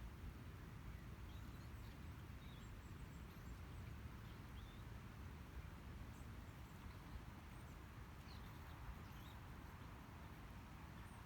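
Quiet outdoor ambience with faint, scattered high bird chirps spread through the quiet.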